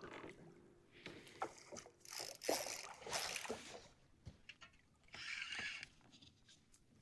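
Water swishing and splashing around a kayak in two main bursts, with scattered light clicks and knocks.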